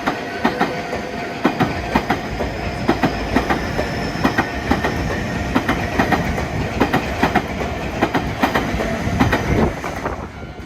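Electric commuter train passing a level crossing, its wheels clattering in a steady run of clicks over the rail joints above a continuous rumble.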